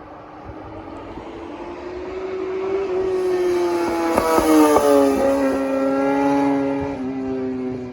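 A high-revving engine passing by on a mountain road: it grows louder, is loudest about four to five seconds in, where its pitch drops as it goes past, then holds a steady note as it moves off.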